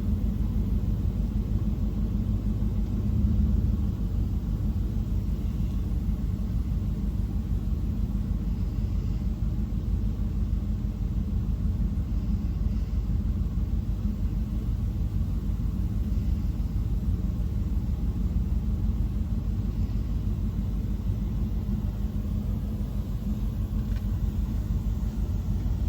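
Steady low rumble heard inside a truck cab as a D&S 5000 touchless in-bay car wash runs its spinning spray wand, pumping water against the body of the idling truck.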